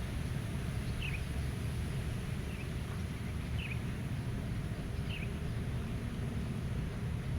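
Low, steady wind rumble with a small bird giving a short, high, falling chirp four times, roughly every second and a half.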